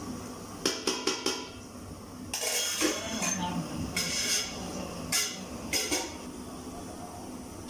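Metal spoon clinking and scraping against cookware while handling fried rice: three quick clinks about a second in, then several short scraping strokes.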